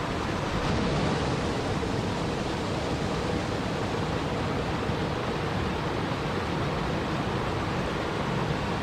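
Steady rushing water sound, an even hiss and rumble with no breaks or distinct drops.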